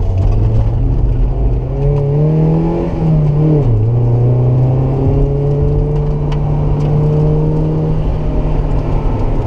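Mazda MX-5's four-cylinder engine heard from inside the cabin while driving on track. The engine note climbs about two seconds in, drops sharply a little after three seconds as the revs fall, then holds a steady pitch.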